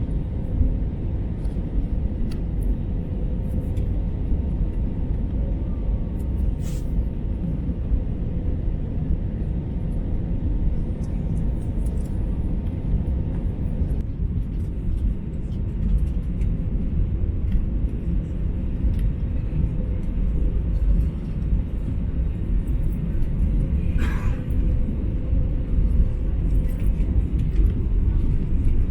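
Airliner cabin noise in flight: a steady low rumble of the engines and airflow, with a faint steady hum and a couple of brief clicks.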